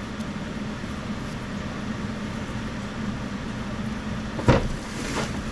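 Steady low mechanical hum of workshop equipment, with a single sharp knock about four and a half seconds in.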